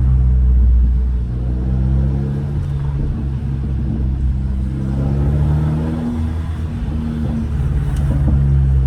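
Straight-piped exhaust of a 2015 Mercedes CLA 250's turbocharged 2.0-litre four-cylinder, which also has an aftermarket intake, running at low revs while cruising. The pitch rises a little about halfway through, then eases off.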